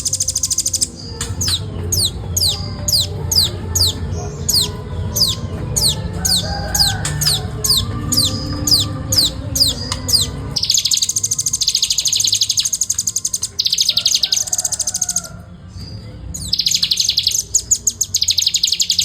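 Velvet-fronted nuthatch singing in fast, tight chatter. A rapid high trill comes first, then a long run of quick downward-sweeping notes about three a second, then more long rapid trills in bouts with a short pause near the end. This is the machine-gun 'ngebren' delivery that keepers prize. A low steady hum runs underneath.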